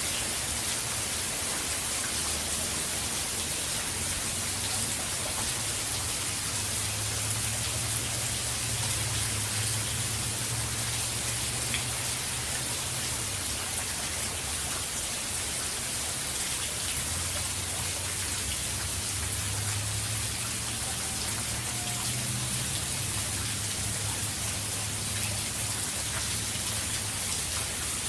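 Steady rain falling hard during a hurricane, an even hiss, with a low rumble swelling underneath twice.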